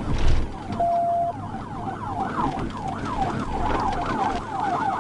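Police car siren in yelp mode: a fast rising-and-falling wail repeating about three times a second, with vehicle noise underneath. A low thump comes at the very start, and a short steady beep sounds about a second in.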